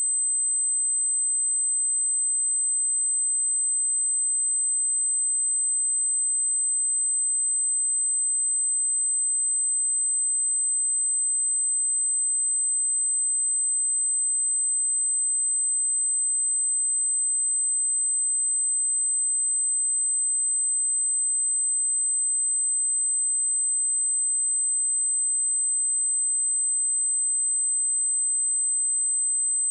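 A steady, high-pitched 8162 Hz sine-wave test tone, one pure pitch held at a constant level.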